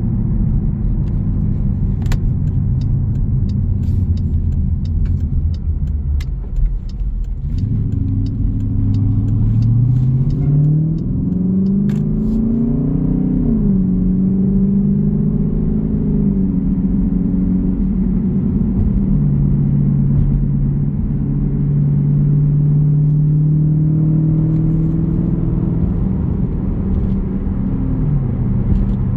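Jeep Grand Cherokee's 5.7 Hemi V8 exhaust rumbling low, then rising in pitch as it accelerates about a third of the way in, dropping at an upshift and settling into a steady cruise with further drops in pitch near the middle and near the end. A light regular ticking runs through the first few seconds.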